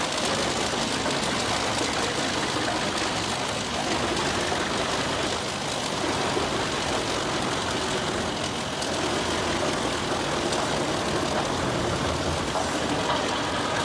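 Eschlböck Biber 110 crane-fed wood chipper running steadily as it feeds and chips large tree trunks: a constant engine drone under a dense grinding noise.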